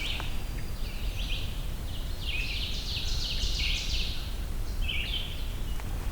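Winter wren singing: a long, rapid, high jumble of trills and notes lasting about four seconds, then a short further phrase about five seconds in, over a low steady rumble.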